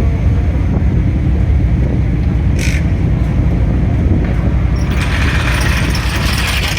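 Motor vehicle engines running with a heavy, steady low rumble; a brief hiss about two and a half seconds in, and a louder high hiss joins about five seconds in.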